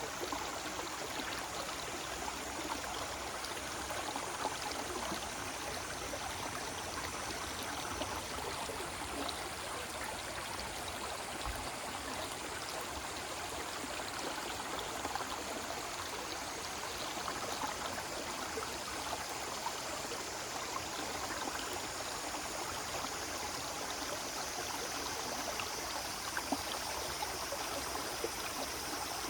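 Small forest waterfall splashing and rushing steadily, a continuous hiss of falling water with fine splashes throughout.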